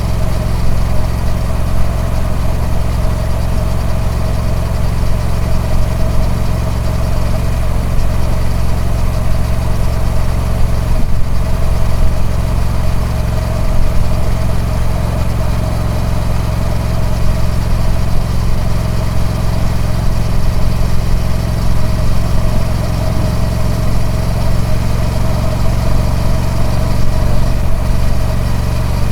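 Triumph Speed Twin 1200's parallel-twin engine with its stock exhaust, running steadily at a constant, unchanging engine speed, with a strong low exhaust note.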